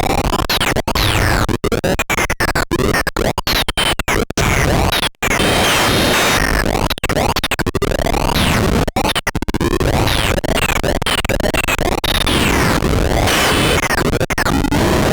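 Saturn eurorack complex noise generator (four square-wave oscillators mixed through logic) putting out harsh, glitchy synthesized noise, full of falling pitch sweeps. It is choppy with many brief cut-outs through the first five seconds, then denser and continuous.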